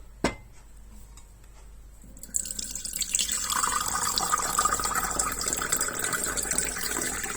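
A light click, then from about two seconds in a steady stream of water being poured from a bottle into an espresso machine's water tank.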